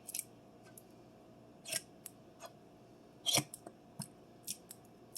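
Plastic squeeze bottle of barbecue sauce being squeezed, the sauce and air sputtering out in short, irregular squirts.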